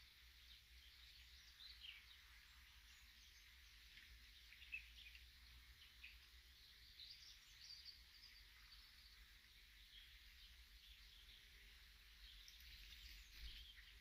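Faint birdsong: scattered short chirps and calls from several birds, over a low steady rumble.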